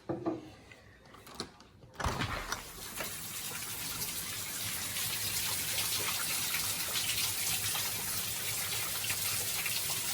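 A couple of short knocks, then about two seconds in a steady rushing hiss of heavy rain starts suddenly and grows a little louder.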